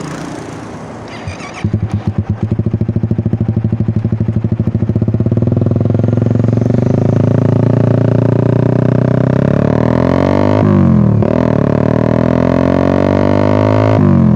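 Suzuki Satria FU's single-cylinder four-stroke engine breathing through an aftermarket SC-Project exhaust. It fires up about a second and a half in and runs with a choppy, pulsing beat. Its revs then climb and hold high, with a brief dip and pick-up near the end.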